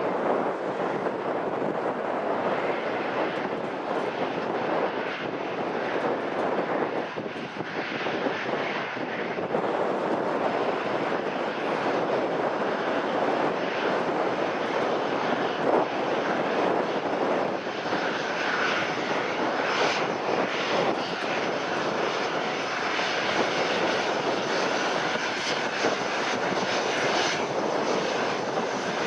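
Airliner engines running, a steady rushing noise, with a faint whine coming in about two-thirds of the way through.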